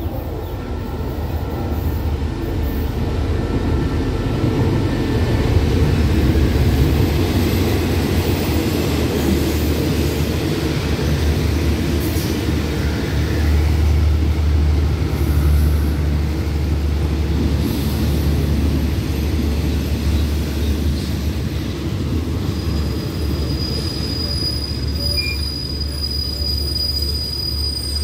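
Diesel-hauled passenger train rolling slowly into a station: the locomotive's engine rumble is loudest in the first several seconds as it passes, then the carriages roll by. Near the end a high, steady brake squeal sets in as the train slows to stop.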